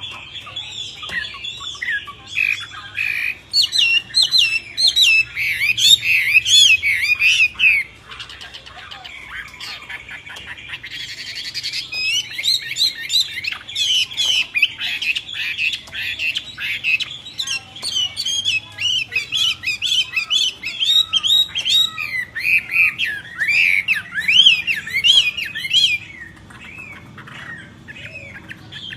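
Songbirds calling in a fast, busy stream of squawks, chirps and whistles that glide up and down. The calls are loudest in two stretches, easing off for a few seconds between them and again near the end.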